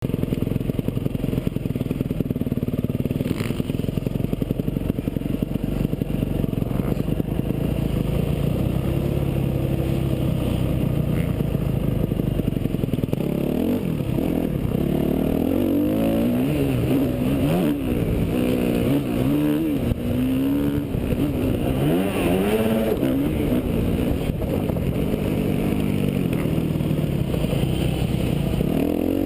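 Yamaha YZ250F four-stroke motocross bike engine running on the track. It holds a fairly steady note for about the first half, then revs up and down repeatedly as the throttle is opened and closed.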